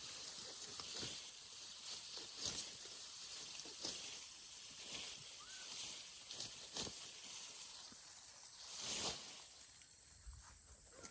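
Grass and vegetation rustling and swishing in irregular strokes about one to two seconds apart, with a longer, louder swish about nine seconds in.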